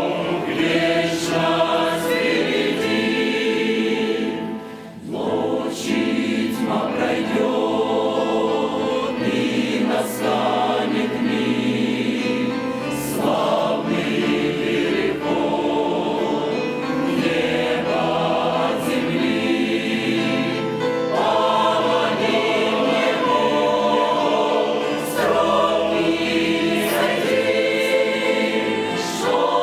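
Church choir singing a Russian hymn, many voices in harmony in sustained phrases, with a short breath pause about five seconds in.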